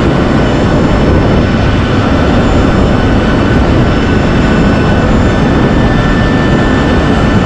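Loud, steady jet turbine running noise around a parked Boeing 737, with faint high whine tones over a deep rushing hum.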